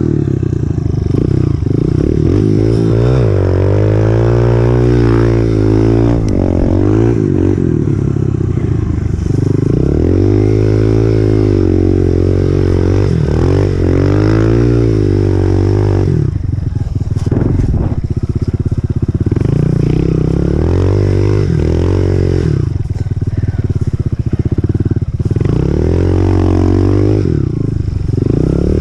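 Honda CRF125F's single-cylinder four-stroke engine being ridden, revving up and easing off again and again as the throttle is opened and closed, with short drops to a lower note between pulls.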